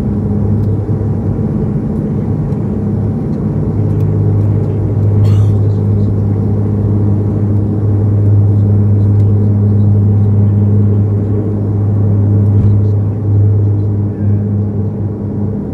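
Cabin drone of a Bombardier Dash 8 Q400 turboprop's engines and propellers: a loud, steady low hum with a strong deep tone and a few fainter higher tones. A brief knock sounds about five seconds in.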